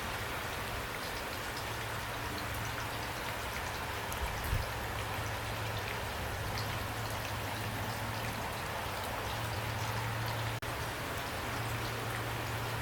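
Steady rain falling, with individual drops ticking over the hiss, over a low steady hum. The sound cuts out for a split second about ten and a half seconds in.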